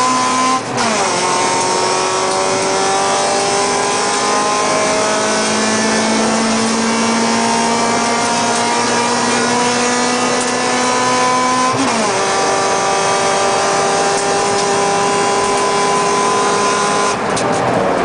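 Honda Civic VTi's four-cylinder VTEC engine pulling hard under racing acceleration, heard from inside the cabin over road and wind noise. The revs climb steadily in long pulls, broken by a sharp upshift about a second in and another about twelve seconds in. Near the end the engine lifts off and the revs fall.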